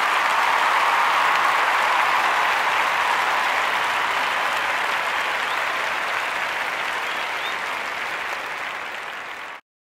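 Applause, fading slowly and then cutting off abruptly near the end.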